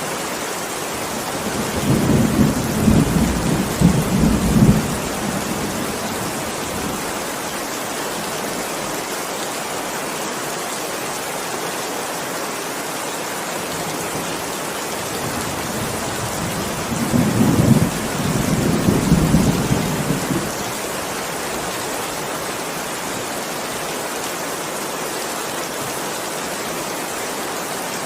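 Steady heavy rain with thunder rumbling twice, once a couple of seconds in and again past the middle, each roll lasting about three seconds.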